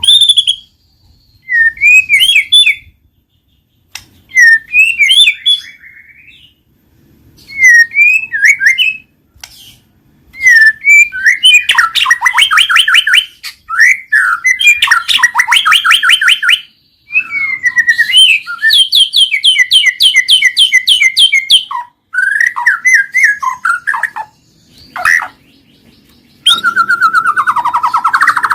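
White-rumped shama singing: short whistled phrases with pauses between them, then from about a third of the way in, longer passages of fast repeated trills.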